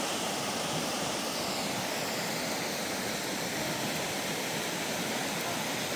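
Steady rushing of flowing water, an even hiss with no distinct events.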